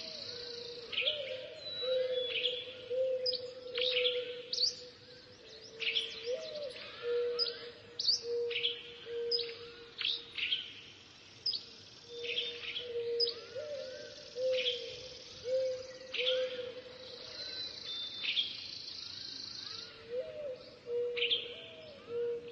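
Birds chirping: a rapid string of short, high, falling chirps over a lower, steady warbling note that carries on almost without a break.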